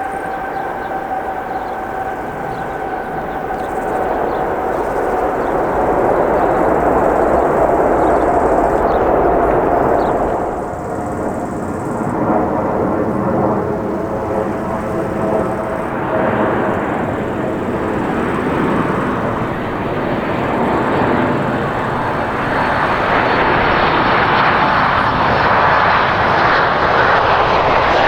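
Jet airliner engines on landing: an Emirates Airbus A380's engine noise with a steady whine. About ten seconds in it gives way to a Boeing 737 MAX 9 approaching to land, its engine noise growing louder.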